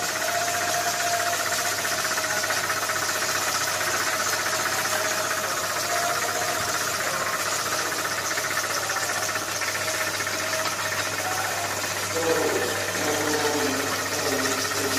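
Raffia twine winding machine running steadily: a continuous mechanical whir over a low hum.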